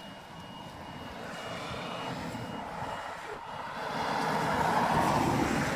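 A car being driven, its engine and tyres getting steadily louder through the first four seconds, then staying loud.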